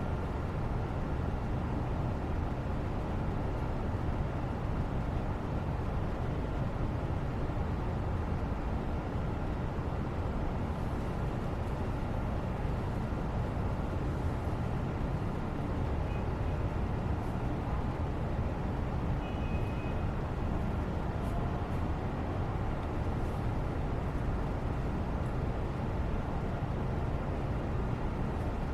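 Steady background noise, a constant low rumble with hiss and no changes in level, the white-noise bed of a study session.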